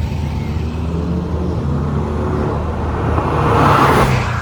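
Porsche 718 Boxster engine running as the car is driven, a steady low engine note under road noise, with a rush of noise swelling about three to four seconds in.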